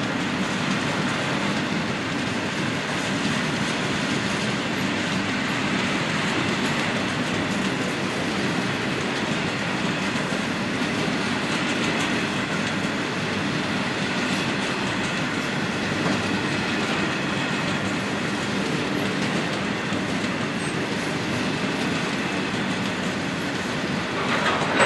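A train running past on the tracks: a steady rumble of wheels on rail with faint high wheel squeal, lasting the whole time, and one short louder sound at the very end.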